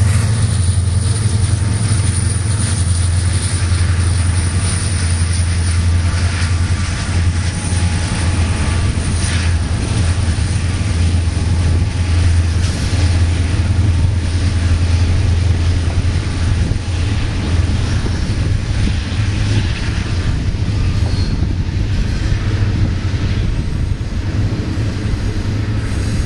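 Diesel locomotives leading a Union Pacific double-stack container train, approaching round a curve and passing under power. The sound is a steady low drone throughout, loud and unbroken.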